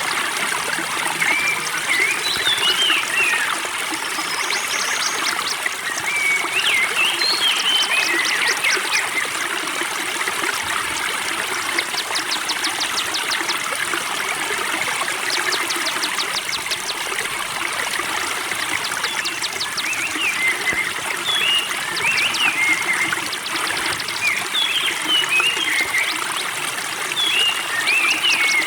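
Spring water trickling steadily, with small birds chirping in short phrases and fast, high ticking trills coming and going.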